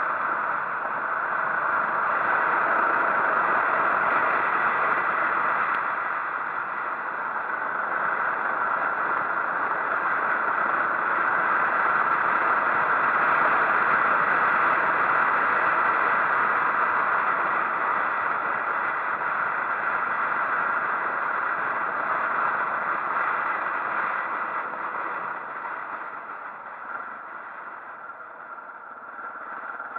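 Motorcycle on the move: a steady rush of wind and engine noise that gets quieter near the end as the bike slows.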